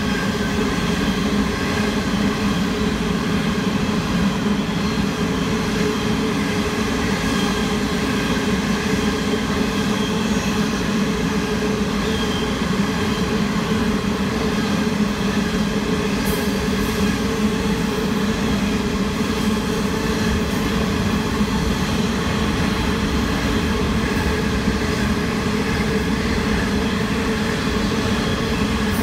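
Sydney Trains electric passenger train running at a steady pace, a constant rumble with a hum of several steady tones that does not rise or fall.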